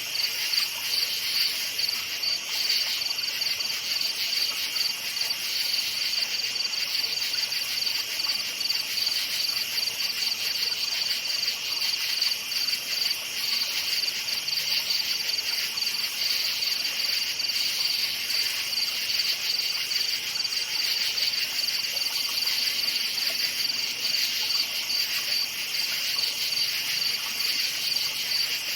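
A chorus of crickets chirping at night, dense rapid pulsing high trills layered over each other without a break.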